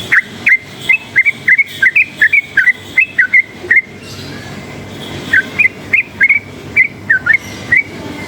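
Yellow-vented bulbul calling in fast runs of short, hooked whistled notes, about three a second, in two phrases with a pause of about a second and a half between them, over a steady low background hum.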